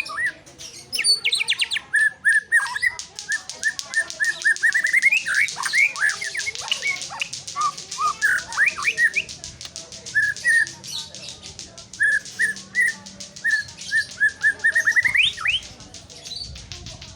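White-rumped shama singing: strings of short repeated notes broken by quick rising whistles. A fast, even ticking runs underneath through the first half.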